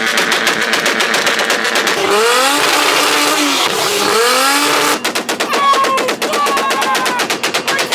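A car engine revving hard, its pitch swinging up and down near the middle, over a rapid crackling rattle that grows denser in the second half.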